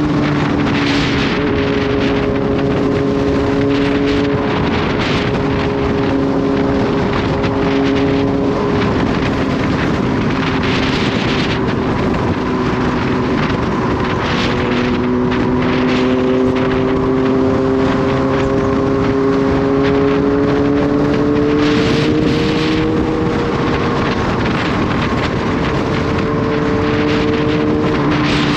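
Kawasaki Z H2's supercharged inline-four engine running at a steady, relaxed cruise, its pitch drifting slowly down and then back up, with wind noise and short bursts of hiss every few seconds.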